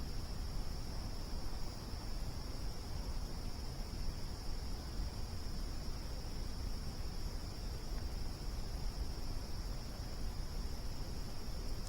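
Crickets chirping in a steady, unbroken high-pitched chorus over the low, even rumble of a burning campfire.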